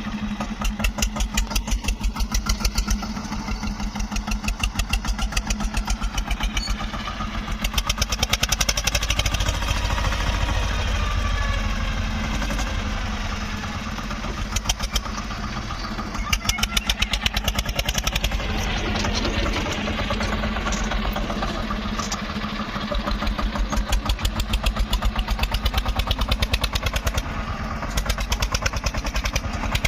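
Eicher tractor's diesel engine running with an even beat of firing strokes, growing louder and easing back every few seconds as the homemade front loader works.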